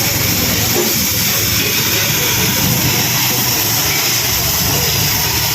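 An engine running steadily with a fast low pulsing, under a constant hiss.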